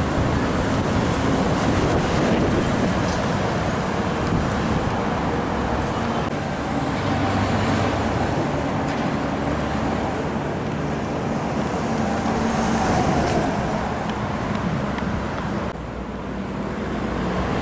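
Road traffic with trucks and cars passing: a steady rush of tyres and engines, with engine tones rising and falling as vehicles go by. The level dips briefly near the end.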